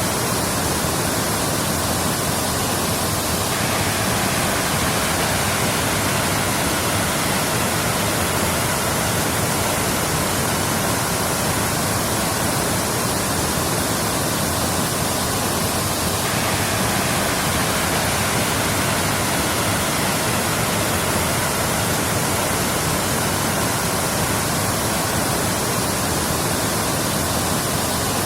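Waterfall rushing, a steady, unbroken roar of falling water. Its hiss shifts slightly in tone about every twelve or thirteen seconds, as a looped recording would.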